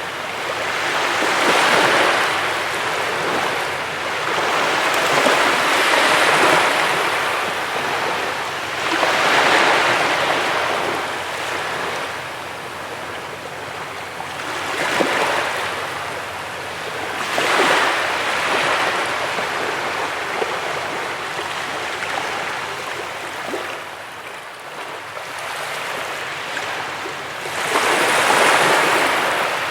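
Sea waves breaking and washing up a beach, the surf swelling and falling back every few seconds, with the loudest wave near the end.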